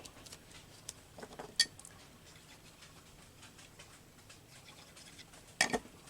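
Paper cut-outs being handled and laid onto a collage page: soft rustling and scratching with a few light taps, a sharper click about a second and a half in and a louder pair of taps near the end.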